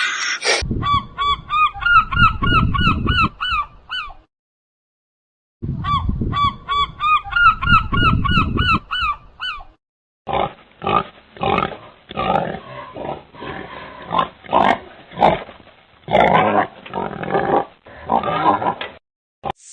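Animal calls: two bursts of short, pitched calls repeated rapidly, about four a second, over a low rumble, then a run of harsher, irregular calls.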